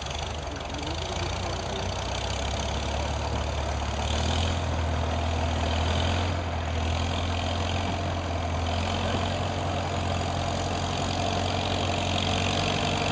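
1951 Farmall H tractor's four-cylinder engine running steadily, growing louder over the first few seconds and then holding.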